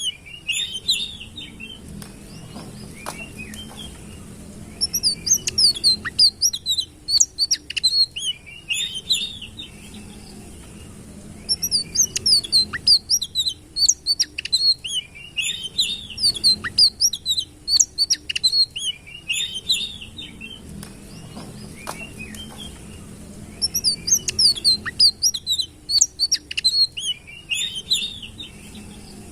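Sitrun bird singing: bouts of quick, high chirping notes, each a few seconds long, separated by short pauses, over a faint low hum.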